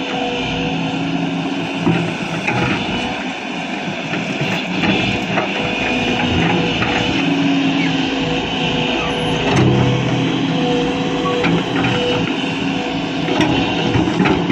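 Diesel engine of a JCB 3DX backhoe loader running steadily under load, with a few short knocks.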